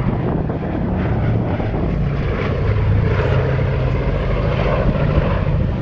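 Boeing B-17G Flying Fortress's four Wright R-1820 Cyclone radial engines running steadily as the bomber flies past, a deep propeller drone that grows slightly louder.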